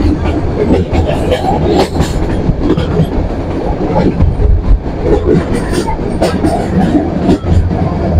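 Metre-gauge passenger train running, heard from beside the coach at an open door or window: a steady low rumble with many clicks of the wheels over the rails.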